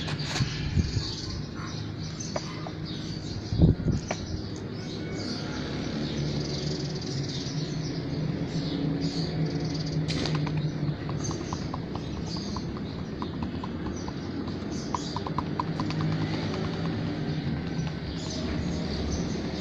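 Small birds chirping over and over against a steady low hum, with one thump about four seconds in.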